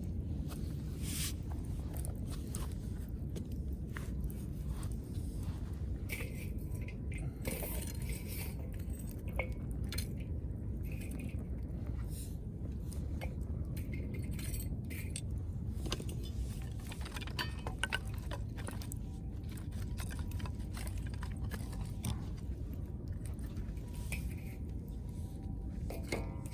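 Scattered light clinks and clicks of metal camping cookware over the steady low rumble of a wood fire.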